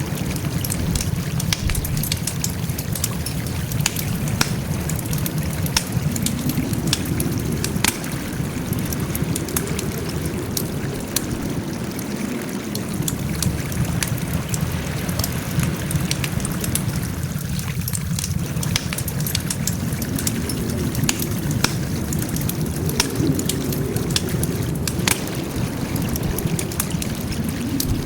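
Wood fire crackling, with frequent irregular sharp pops over a steady low rumble of burning.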